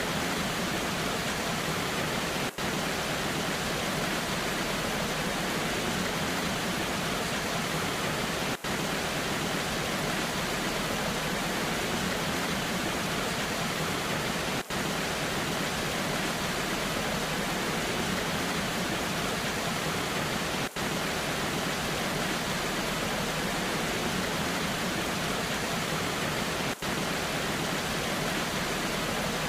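Waterfall in the rain: a steady, even rush of falling water, with a very short dip in level about every six seconds.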